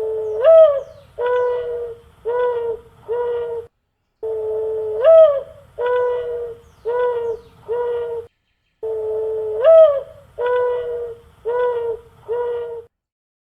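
A dove cooing: three phrases, each a long note that swells upward at its end, followed by three shorter coos.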